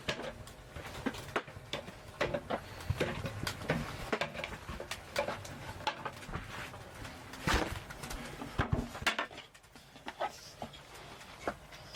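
Scattered light clicks, taps and clatter of cooking gear being handled while food or drink is heated.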